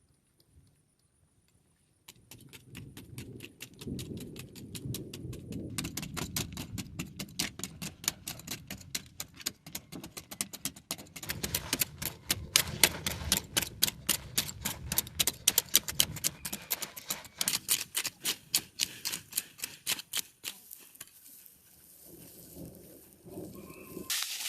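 A fast, dense run of light clicks and taps over a low rumble. It starts about two seconds in, is busiest in the middle, and thins out near the end.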